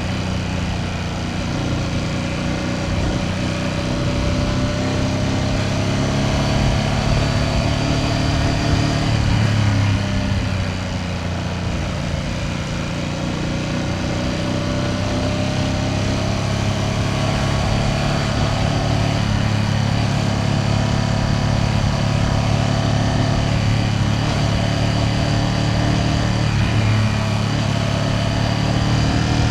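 Ducati Panigale V2S twin-cylinder engine running under way at a moderate cruise. Its note climbs gradually, drops back about ten seconds in, then rises again and holds steady, with wind rumble on the microphone.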